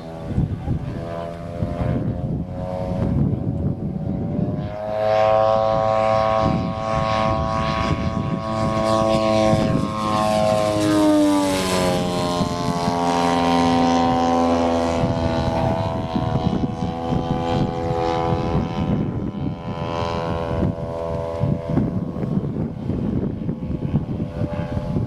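Engine and propeller of a 1/3-scale radio-controlled Cessna 182 model in flight. The drone grows louder as the plane approaches, then drops in pitch as it passes overhead about eleven seconds in, and carries on at a lower pitch as it flies away.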